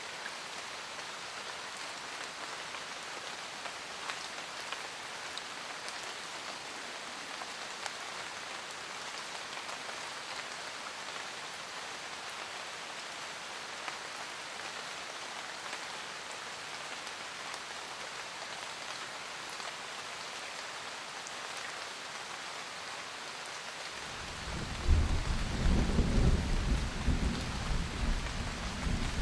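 Steady rain pattering, with occasional single drops ticking. About 24 seconds in, a loud, deep rumble of thunder rolls in and carries on under the rain.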